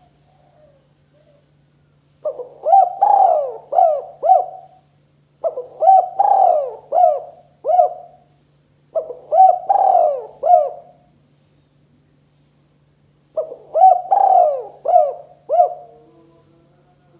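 Spotted dove (tekukur) cooing: four phrases, each a quick run of several short, falling coos, with pauses of a second or two between them.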